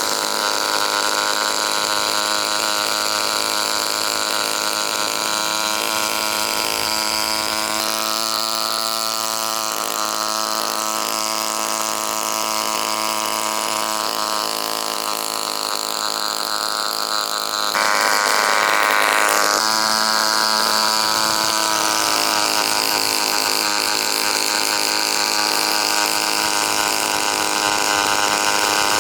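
Homemade mini gasoline engine running at a steady speed, with a brief louder surge about eighteen seconds in.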